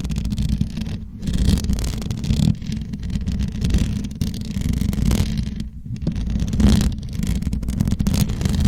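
Microphone being scratched and rubbed directly for ASMR: a continuous deep, rumbling scratch with irregular, uneven strokes that flare up into a brighter hiss every second or so.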